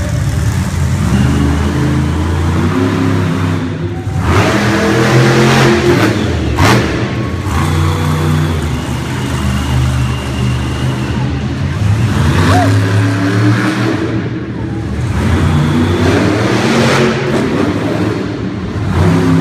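Monster truck engine revving hard over and over, its pitch climbing and falling with each throttle blip, with a few loud surges of broad noise along the way.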